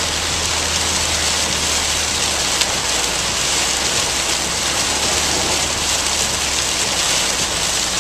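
Heavy rain drumming on a car's roof and windshield, heard from inside the car as a dense, steady hiss, with a low drone underneath.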